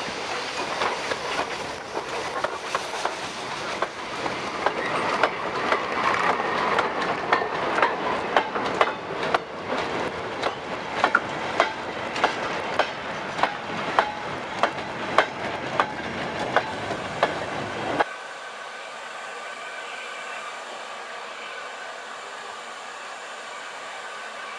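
Heritage railway train running on the line, its wheels clicking in a steady rhythm over the rail joints, loudest about midway. About three-quarters of the way through, the sound cuts off abruptly to a quieter, steady hiss.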